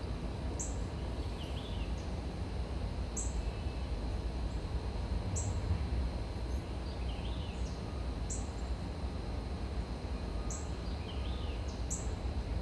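Steady low background rumble with a small bird giving short, high chirps every two to three seconds.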